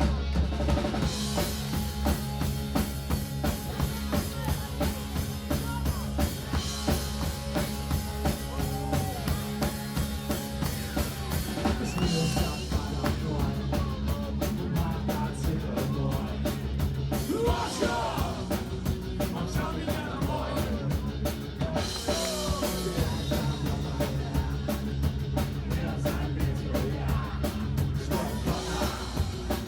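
Live punk rock band playing an instrumental passage, a fast, steady drum-kit beat under bass and a wandering melodic lead, with cymbal crashes about every five seconds.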